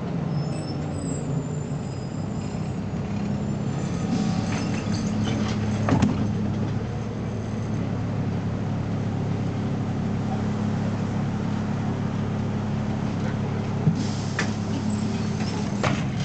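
BMC Belde 220-SLF city bus's diesel engine running steadily at an even pitch, with a few short knocks or rattles around six seconds in and near the end.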